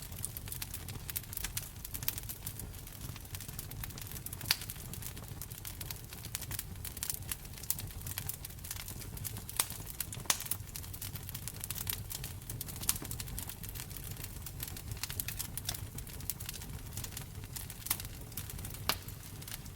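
Wood fire in a fireplace crackling, with a dense run of sharp pops and snaps over a steady low rumble of the flames. A few louder pops stand out: one about four seconds in, one about ten seconds in and one near the end.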